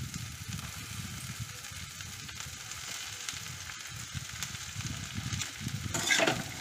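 Jackfruit seeds and potato pieces sizzling steadily as they fry in mustard oil in a steel kadai. Near the end a spatula stirs them, adding a few louder scrapes against the pan.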